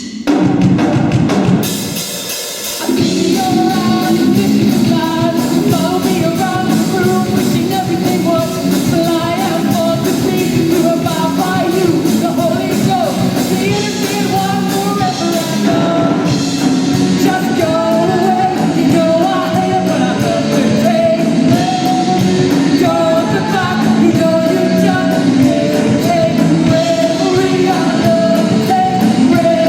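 Live rock band playing, with drum kit, two lead guitars and a male lead singer. It opens on a loud hit, dips briefly about two seconds in, then the full band and vocal carry on steadily.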